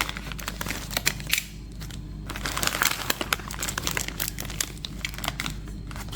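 Blind-box packaging crinkling and crackling in the hands as a vinyl figure is unwrapped, a quick run of small irregular crackles.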